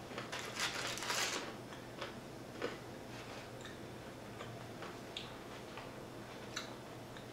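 Close-up eating sounds of crispy fried chicken: a crackly crunch and rustle about a second in, then scattered soft crackles and clicks of chewing.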